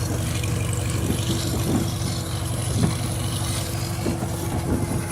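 1951 Farmall H tractor's four-cylinder engine running steadily on the move, with a few short knocks scattered through.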